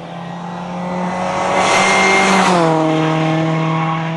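Rally car passing at speed with its engine held at a steady note, growing louder with a rushing noise. About two and a half seconds in, the pitch drops as the car goes by, and the sound fades away.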